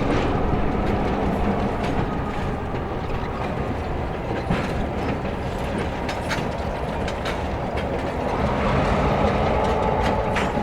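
Freight train rolling by with a steady rumble, its wheels clicking over rail joints now and then.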